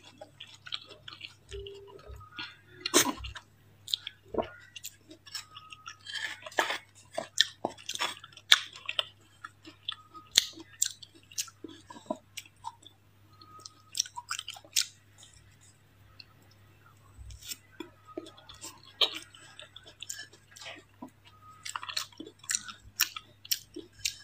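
Close-miked chewing of powdery matcha-covered ice: sharp, irregular crunches come several times a second, with a short lull about two-thirds of the way through.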